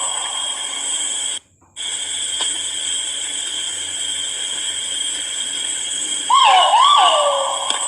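Great argus pheasant giving its loud two-note kuau call about six seconds in, each note swooping up then falling away, over a steady high-pitched drone. The sound cuts out completely for a moment about a second and a half in.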